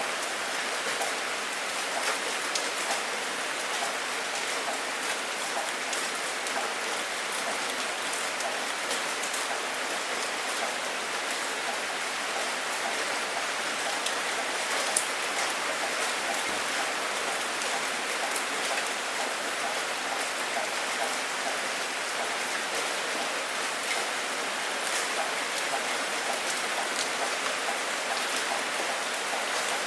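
Steady rain falling, with individual drops ticking close by and one sharper drop hit about halfway through.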